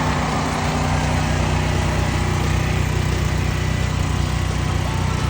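Dirt bike engine idling steadily, with no revving.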